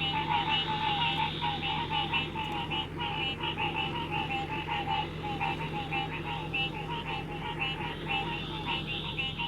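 A chorus of many small animals calling together: rapid, overlapping pulsed chirps that keep up steadily without a break, over a low steady hum.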